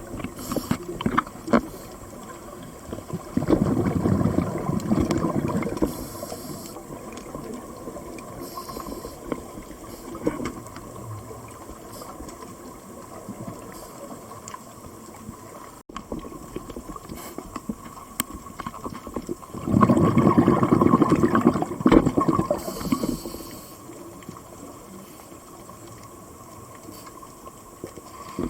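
Scuba diver's exhaled air bubbles heard underwater, bubbling in two bursts of a few seconds each with a long quieter stretch between, where only a low hiss and faint clicks remain.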